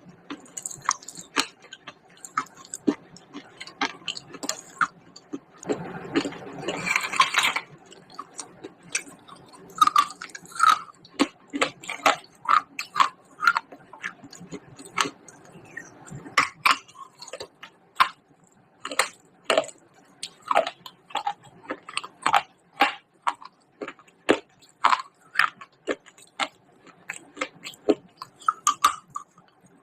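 Close-up crunching and chewing of pieces of baked clay pot: many sharp, irregular crunches, with a longer grinding crunch about six seconds in.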